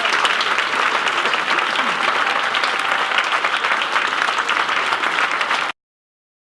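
Audience applauding, a dense crackle of many hands clapping that cuts off abruptly about five and a half seconds in.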